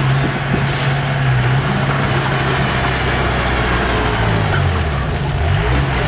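Heavy diesel engine of earthmoving machinery running continuously. Its low note holds steady for the first few seconds, then dips and rises repeatedly in the second half.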